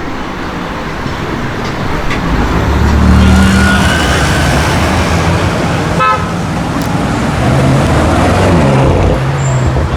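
BMW M5 F90's twin-turbo V8 revving: the engine note swells about two and a half seconds in, peaks, then climbs again later and falls off in pitch near the end. A quick run of crackles comes about six seconds in.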